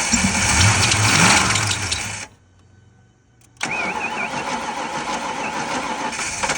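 Starter cranking the 1992 Mustang GT's 5.0 V8 engine. The sound cuts off abruptly a little over two seconds in, and a steady noise resumes about a second and a half later.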